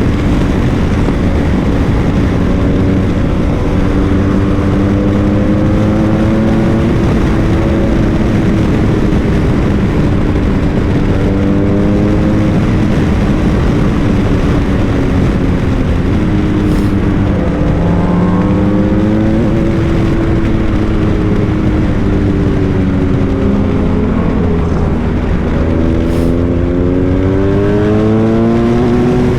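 Motorcycle engine running while riding, under a loud steady rush of wind. The engine pitch drifts down and back up several times as speed changes, and climbs steadily near the end as it accelerates.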